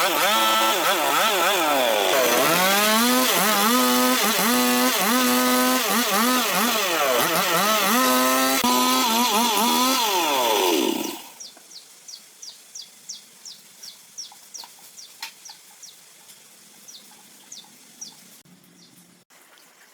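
Two-stroke chainsaw engine running and being revved up and down over and over, then shut off suddenly about eleven seconds in. Faint high-pitched chirping repeats for several seconds after it stops.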